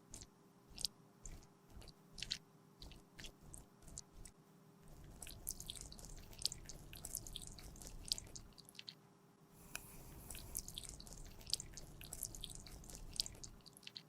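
Close-miked handling of makeup: a run of sharp little clicks and taps, then from about five seconds a dense, sticky crackling and scraping. The crackling pauses briefly just before ten seconds, then starts again.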